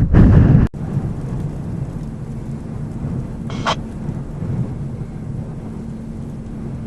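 Strong windstorm gusts buffeting the microphone, cut off abruptly under a second in, followed by a steady low rumble of wind with a faint hum and one brief higher sound a little past halfway.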